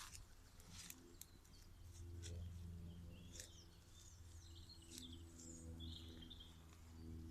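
Near silence: a few faint bird chirps over a low steady hum.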